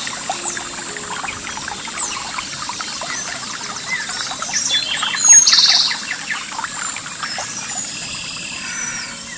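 Water trickling and splashing over rocks in a stream, with birds calling. One bird's short trilled phrase, the loudest sound, comes about five seconds in. A thin, steady high tone runs underneath.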